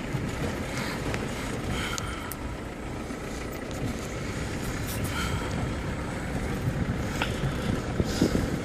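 Steady running noise of a car, with a few faint clicks.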